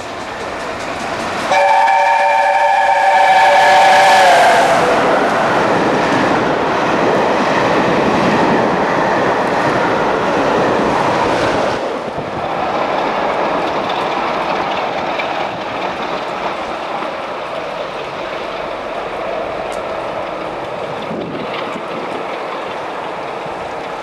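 LNER A4 Pacific steam locomotive 60009 Union of South Africa passing at speed: its chime whistle sounds for about three seconds from near two seconds in, dropping in pitch as the engine goes by. The loud rush of the locomotive and train follows, loudest around four seconds in and easing after about twelve seconds as the coaches run past.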